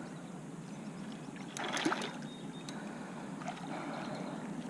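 Low, steady river-water noise around a kayak, with a brief scuffling noise about one and a half seconds in.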